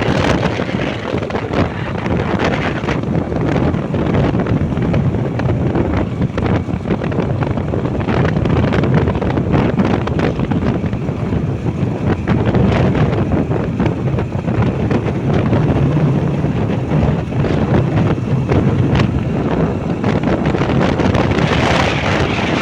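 Steady, loud wind rush buffeting the microphone on a moving motorbike, with the bike's engine running underneath.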